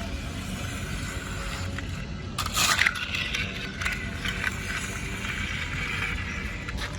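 Small electric motors of radio-controlled toy construction vehicles running steadily with a light whine. About two and a half seconds in comes a louder, rough burst lasting about half a second.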